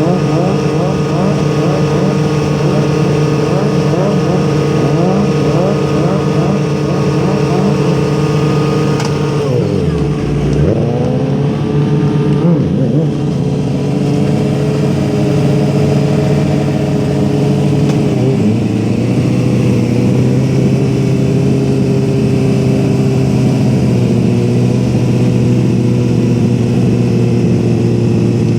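Vehicle engines running steadily, with the pitch dropping and rising back about ten seconds in and shifting again near two-thirds of the way through, as when an engine is revved.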